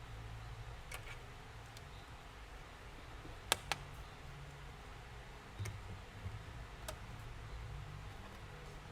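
Scattered light clicks and taps of small objects being handled on a desk, with two sharp clicks close together about halfway through, over a low background hum.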